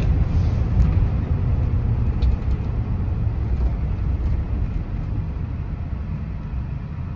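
Road and engine rumble heard from inside a moving vehicle, a steady low drone that slowly grows quieter.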